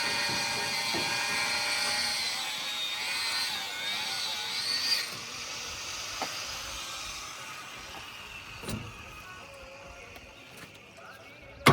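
A power tool running with a high, wavering whine that fades out after about five seconds, followed by a few scattered knocks on the formwork work site, the loudest at the very end.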